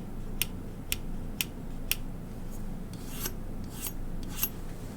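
Old plastic toy pirate pistol being handled: five sharp clicks about two a second, then a few softer scrapes near the end.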